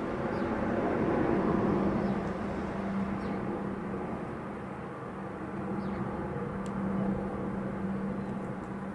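Airbus A400M Atlas's four turboprop engines running, heard as a steady drone with a constant low hum.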